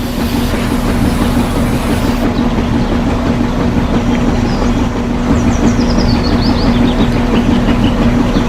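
A vehicle motor running steadily with a constant hum over a dense rumble. Faint bird chirps join about five seconds in.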